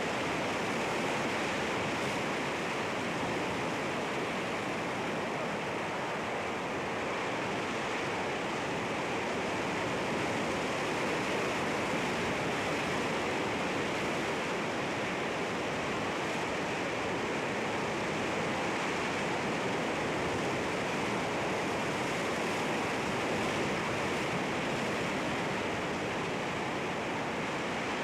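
Sea water washing over rocks: a continuous, steady rush of surf without distinct wave breaks.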